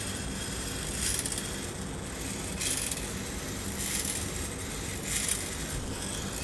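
Small homemade model rowboat's moving mechanism running. A bright, metallic clicking rattle repeats about once every 1.3 seconds over a steady low hum.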